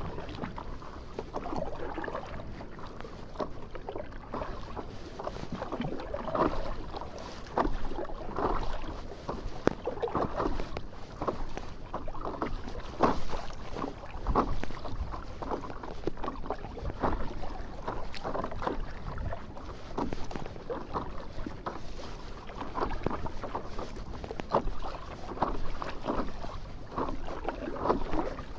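Sea water splashing and sloshing in irregular bursts, with wind rumbling on the microphone.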